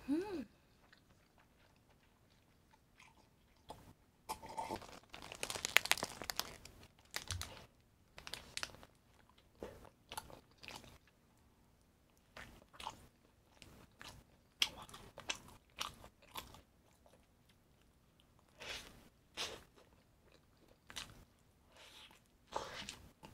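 A person biting into and chewing crunchy food, crisp crackly crunches. The crunching comes thickest about five seconds in, then in short scattered bites and chews.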